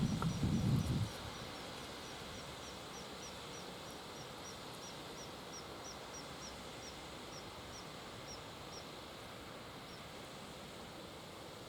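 A small bird giving a thin, high chirp over and over, about two to three times a second, stopping near the end, over steady outdoor background noise. In the first second a low rumble of wind buffeting the microphone.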